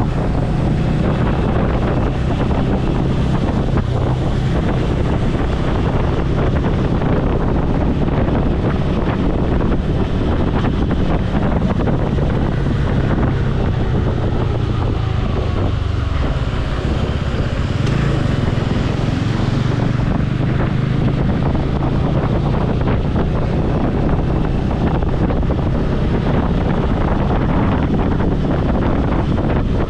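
Motorcycle engine running steadily while riding, with wind buffeting the helmet-mounted microphone.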